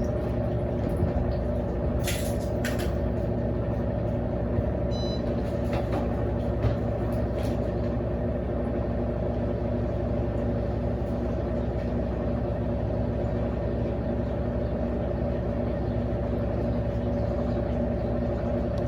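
Electrolux LAC16 washing machine running steadily on a swapped-in 1/4 hp WEG motor from an LT13B: a continuous hum with a high steady whine. A couple of brief clicks about two seconds in.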